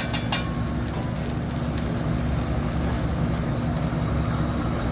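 Steady rumbling noise of a hibachi griddle and its overhead exhaust hood, with one sharp metal clack of a spatula just after the start.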